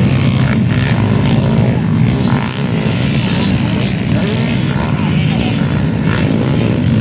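Several underbone motorcycles racing on a dirt motocross track, their small engines revving and droning together in a steady mass of engine noise with wavering pitch.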